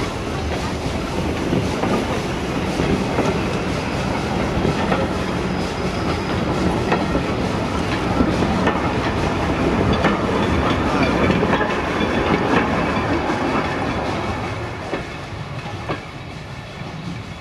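A train of vintage wooden passenger carriages rolling past close by, the wheels clicking over the rail joints. It fades away over the last few seconds as the end of the train passes.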